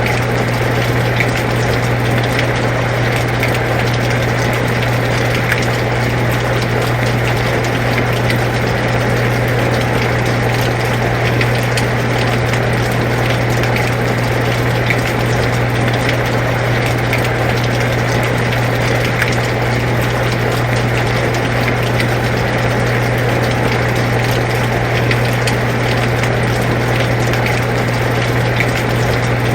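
Air conditioner running with a steady low hum, together with steady rain noise and faint scattered drips.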